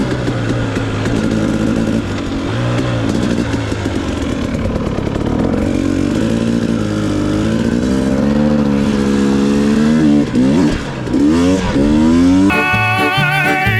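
Two-stroke dirt bike engine running under load, its pitch rising and falling as the throttle opens and closes, with several quick rising revs near the end. Music comes in about a second before the end.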